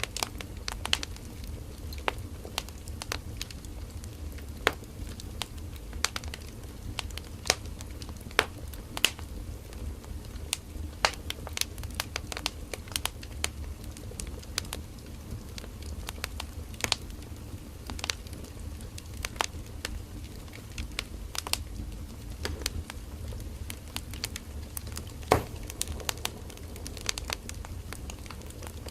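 Firewood burning in a campfire: irregular sharp crackles and pops over a steady low rumble of the flames, with one louder pop near the end.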